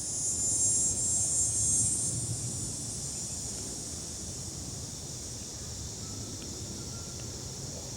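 Insects droning in a steady high-pitched chorus that fades over the first few seconds, with low rustling during the first two seconds.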